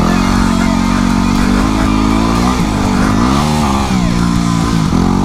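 Yamaha WR250R dual-sport motorcycle's single-cylinder engine running under throttle, the revs dipping about two and a half seconds in, then rising and falling again before dipping once more near the end, as the bike is powered through mud.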